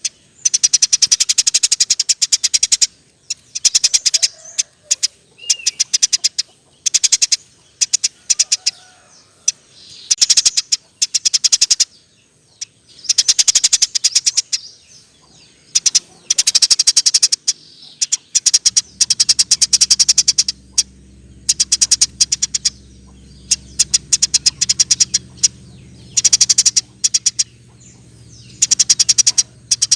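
Eurasian tree sparrow chirping in fast, tightly packed rolls of high chirps, in bursts of one to two seconds with short pauses between them. A faint low hum joins about two-thirds of the way through.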